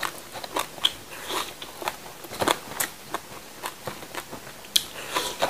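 A person chewing food with their mouth, irregular moist clicks and small crunches, a few louder ones about halfway through and near the end.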